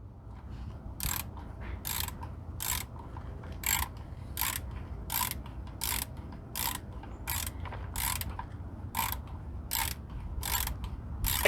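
Hand ratchet working a 15 mm oil drain plug loose, its pawl clicking on each back stroke: about fourteen sharp clicks at an even pace, roughly one every three quarters of a second.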